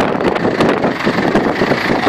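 Heavy wind buffeting the microphone over the running of tractor engines, a loud, ragged rumble with no steady pitch.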